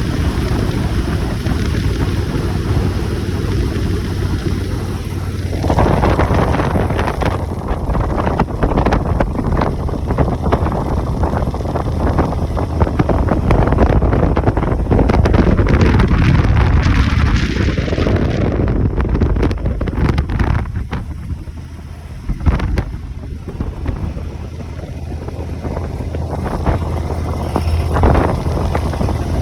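Wind rushing over the microphone of a moving motorcycle, with the engine running underneath; around the middle a note dips and climbs again.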